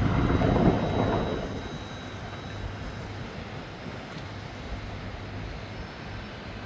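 A steady low rumble, louder and fuller for the first second or so, then settling at a lower, even level.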